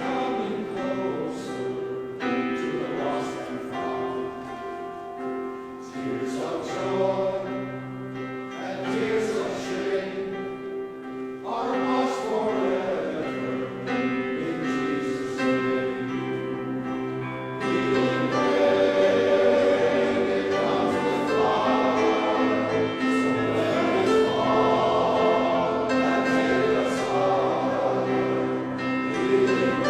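Male chorus singing, the sung notes held and changing every second or so; the singing grows louder about eighteen seconds in.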